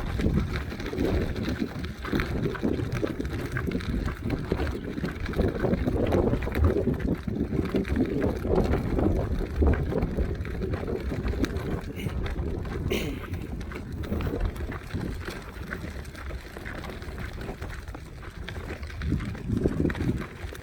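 Wind buffeting the microphone outdoors, a gusty low rumble that rises and falls, easing off in the second half.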